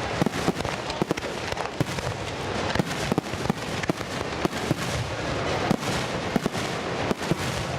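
Fireworks going off in quick succession: a dense string of bangs and crackles, several a second, over a continuous noisy background.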